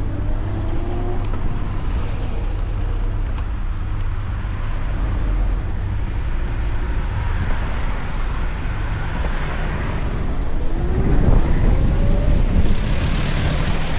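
Road and traffic noise with a steady low rumble while riding a VMoto Stash electric motorcycle in city traffic. About eleven seconds in, a whine rises steadily in pitch and the noise grows louder, as when the bike speeds up.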